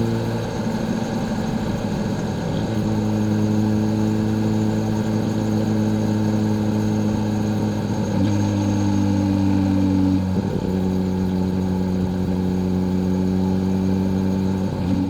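Kawasaki Z H2's supercharged inline-four engine running at steady revs on the move. Its note steps abruptly to a new steady pitch several times.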